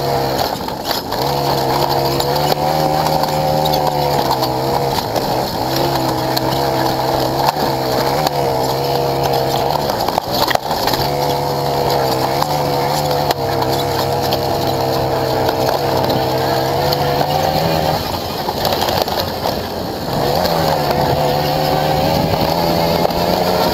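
Racing motorcycle engine at high revs, heard from onboard. Its note holds steady for stretches, then drops and climbs again every few seconds, with a longer drop about 18 seconds in.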